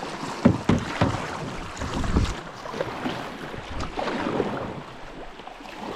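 Canoe running a riffle: water rushing around the hull, with several sharp knocks against the canoe.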